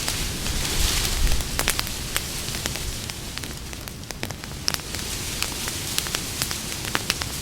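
Campfire of burning wood crackling, with frequent sharp snaps and pops over a steady hiss, swelling briefly about a second in.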